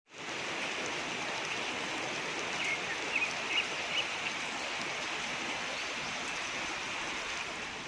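Steady rush of running water, like a stream, with a few short high chirps from birds in the middle stretch.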